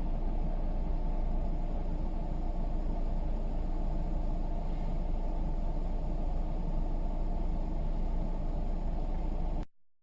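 Steady low rumble of a moving vehicle's engine and road noise, with no crash or impact heard; it cuts off abruptly near the end.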